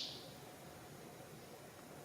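Faint, steady outdoor background hiss. At the very start, the last note of a bird's rapid series of high, falling notes fades out.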